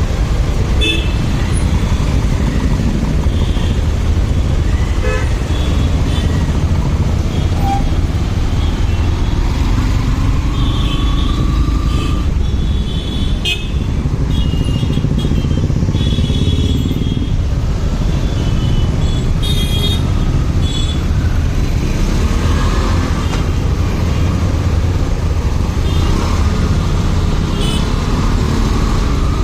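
Motorcycle riding through city traffic, a steady low rumble of engine and wind on the microphone. Short vehicle horn toots sound again and again from the surrounding traffic.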